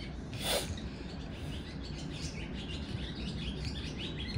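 Small birds chirping steadily in the background, with one brief scratchy noise about half a second in.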